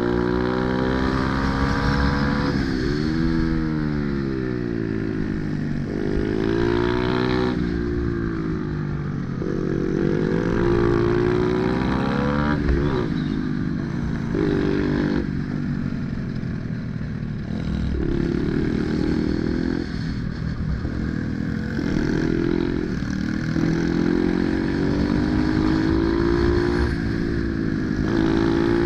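Pit bike engine running hard, its pitch climbing and dropping again and again as the throttle opens and closes through a run, with brief breaks between the climbs.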